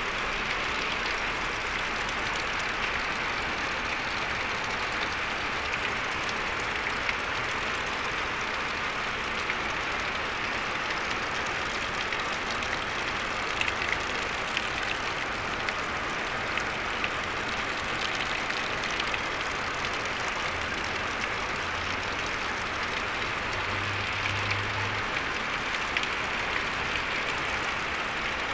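Heavy rain pouring onto an open lake's surface: a dense, steady hiss that keeps up evenly throughout.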